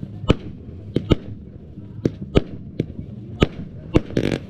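Fireworks going off: sharp separate bangs at uneven intervals, about eight or nine of them, with a short dense crackling burst near the end.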